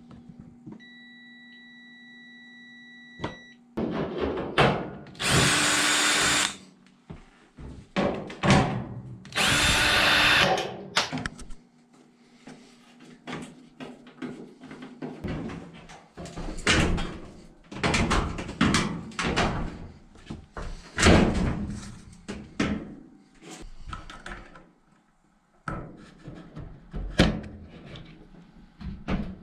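A power drill-driver runs in two short bursts of about a second and a half each, amid repeated clunks and knocks of parts being handled.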